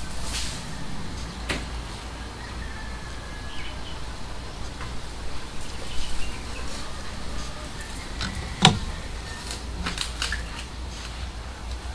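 A coconut dropping from a tall palm and hitting the ground with a single dull thud about nine seconds in, with a few lighter knocks and clicks before and after.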